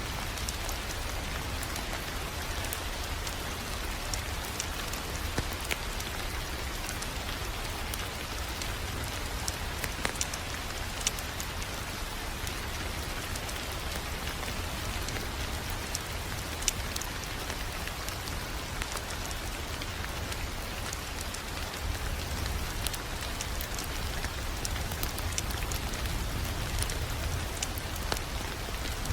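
Wood fire crackling: a steady hiss with many small sharp crackles and an occasional louder pop, over a steady low rumble.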